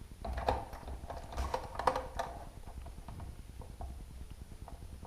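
A quick run of light clicks and taps for about two seconds, then a few faint ticks: a metal door hinge being handled and set in place against a wooden door frame.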